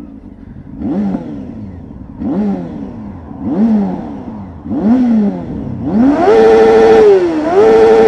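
2003 Yamaha R6's inline-four engine with an aftermarket Remus exhaust can, idling and revved. Four short throttle blips come a little over a second apart, then a longer rev is held high for about two seconds and falls away near the end.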